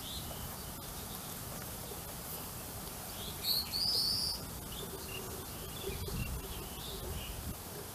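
A bird chirping: a few short, high calls, the loudest a pair of quick rising chirps about halfway through, over faint low background noise.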